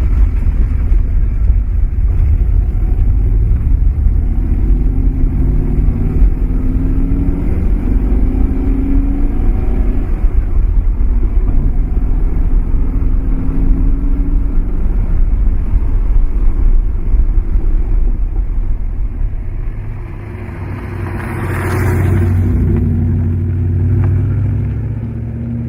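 Maserati Mexico's V8 engine running on the move, its pitch rising and falling with the revs. Near the end the sound swells and fades as the car passes close by.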